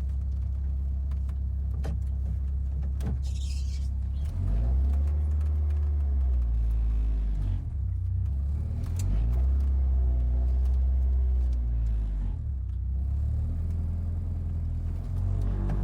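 Peugeot 205 GTI's four-cylinder petrol engine running, heard from inside the car. The revs rise about four seconds in, fall back around seven seconds, rise again around nine seconds and drop near twelve, as the car is driven and shifted.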